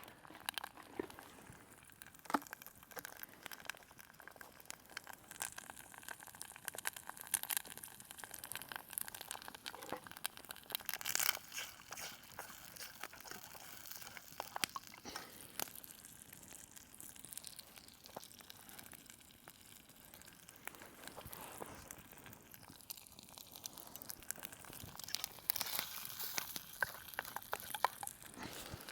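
Irregular crackles and clicks over a faint hiss: eggs cooking in a pan over a campfire.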